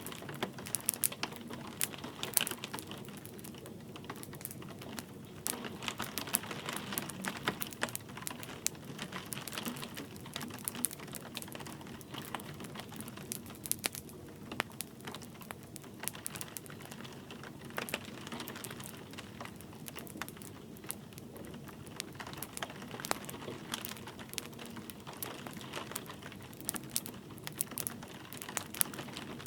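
Wood fire crackling, with frequent irregular sharp pops, over a steady soft hiss of light rain.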